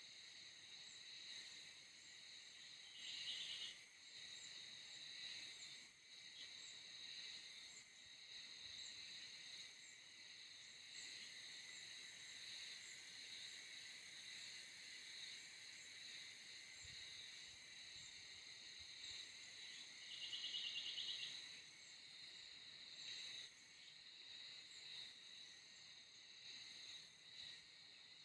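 Faint, steady chorus of insects such as crickets, with a repeated high ticking. Two louder, pulsing trills come about three seconds in and again about twenty seconds in.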